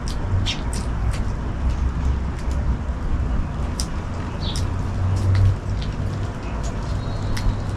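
Steady rain noise with a low rumble underneath, and short high chirps of small birds, about a dozen, scattered throughout.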